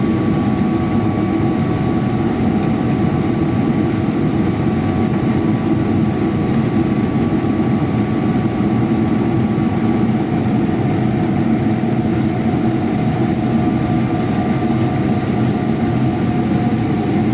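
Airliner cabin noise inside a Boeing 777-300ER: a constant low rumble of engine and air noise from the GE90 engines, with a few whining tones held on top.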